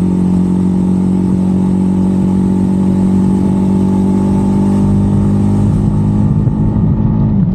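Jawa 350's 334cc single-cylinder engine and exhaust, the motorcycle under way at a fairly steady speed, its pitch holding level and dipping slightly near the end.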